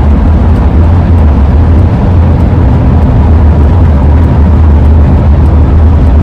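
Steady, loud low rumble of road and wind noise from a 2001 Ford E-350 camper van driving at speed, with a faint steady tone held above it.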